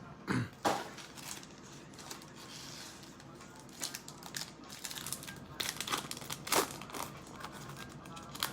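Plastic trading-card packaging crinkling and tearing as a blaster box of football cards is unwrapped and its packs opened, in scattered crackles with a thump just after the start.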